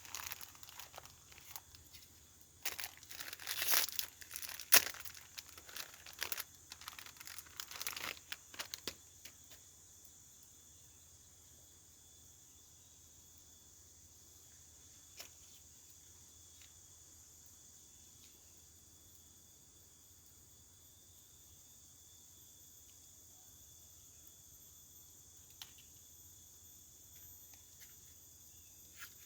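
Crinkling, tearing and crackling handling noises for about the first nine seconds, over forest insects droning steadily in high tones. After that only the insects remain, with a few faint clicks.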